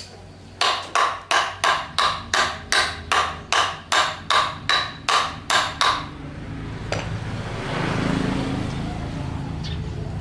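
About fifteen evenly paced hammer blows, roughly three a second, each sharp and quickly decaying, stopping about six seconds in. A steady low rumble follows and swells near the end.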